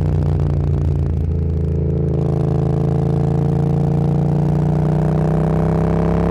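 Motorcycle engine running under way. It eases off briefly a second or two in, then the engine note rises slowly and steadily as the bike accelerates.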